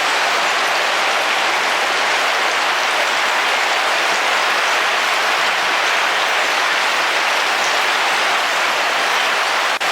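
Heavy rain falling steadily on a car roof: a dense, even hiss of drops. It cuts out for an instant near the end.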